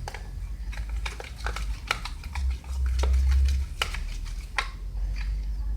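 Scattered light clicks and taps from a spoon and plastic pot being handled while starch is added to glue slime, over a low rumble of handling noise that is heaviest about three seconds in.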